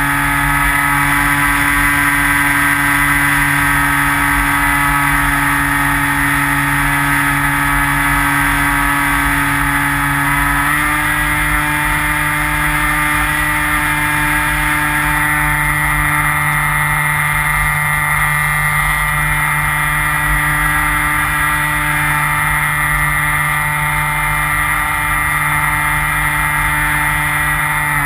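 Skywalker RC plane's electric motor and propeller running steadily, heard from the onboard camera as a whine of several tones whose pitch steps up slightly about ten seconds in. Low wind rumble on the microphone underneath.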